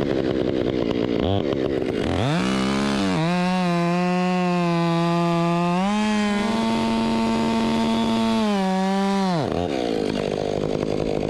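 Two-stroke chainsaw throttled up to full revs and cutting wood for about seven seconds. Its pitch steps up a little partway through, then it is let off and drops back to idle.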